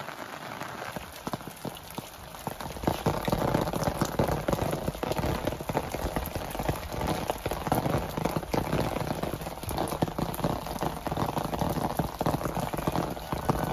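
Rain falling on the ground and surfaces around a village house, a steady hiss dense with individual drop ticks, growing louder about two and a half seconds in.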